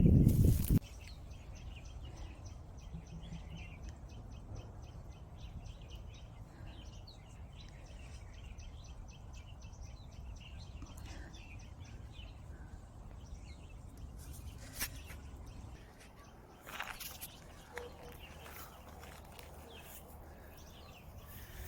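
Wind rumbling on the microphone on an open hilltop, with faint bird chirps and a fast run of high ticks. The wind eases about three quarters of the way through, leaving a few sharper chirps and clicks.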